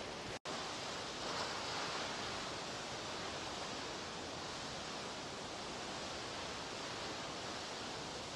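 Steady rushing roar of a large waterfall, an even wash of falling water, with a brief dropout about half a second in.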